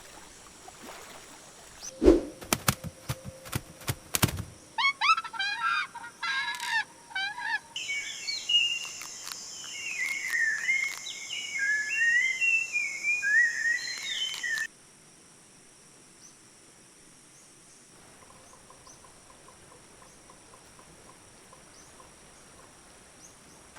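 A quick run of sharp clicks or flaps, then birds calling: a burst of chirps followed by several seconds of warbling song over a steady high buzz. The calls and the buzz cut off abruptly about fifteen seconds in, leaving only faint background with light ticking.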